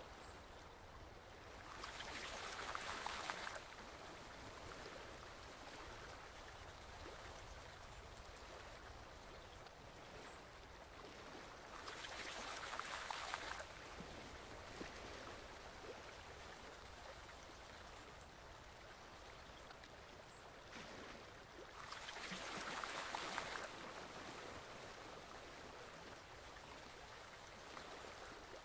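Forest stream water flowing steadily, with a louder rushing swell three times, about ten seconds apart.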